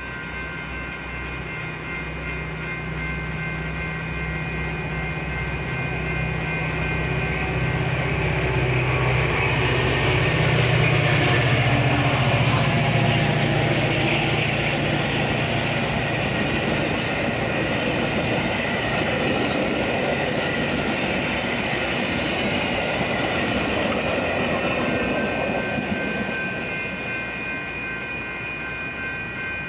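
Metra diesel commuter train of bilevel gallery cars passing a grade crossing: a low locomotive hum in the first half, then wheels rumbling and clacking over the rails, loudest about eleven seconds in and easing off near the end. Under it the crossing warning bells ring steadily throughout.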